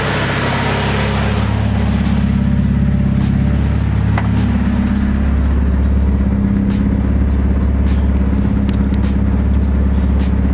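Acura Integra engine idling steadily at about 1,000 rpm while it warms up after an ECU reset, during an idle relearn. A few faint clicks sound later on.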